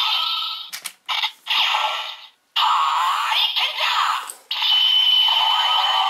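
Bandai Legendary Mobirates toy changer playing its electronic sound effects through its small, tinny speaker, set off by an inserted Hurricane Blue ranger key. The sounds come in several short bursts with brief breaks about a second and two and a half seconds in, then a longer stretch with a steady high tone running through it.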